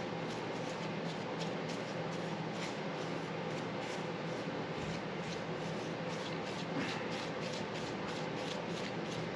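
Paintbrush stroking paint onto a Chevy engine, a soft regular swishing of several strokes a second, over a steady low hum.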